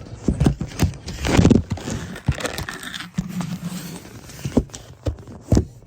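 Close handling noise: a run of irregular knocks, taps and rustles, the loudest cluster about a second and a half in, with a brief low hum a little past the middle.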